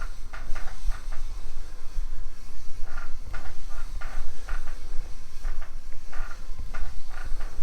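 Kent-Moore factory barrel lap being worked in the main bearing bore of Harley-Davidson K-model engine cases: a quick run of short rubbing strokes, a few per second. The lap has just been given a drop of oil to stop it squeaking as it dries out.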